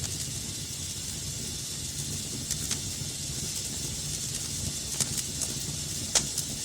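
Wood fire burning in a fireplace: a steady hissing rush with a low rumble, broken by sharp crackles and pops, the loudest about six seconds in.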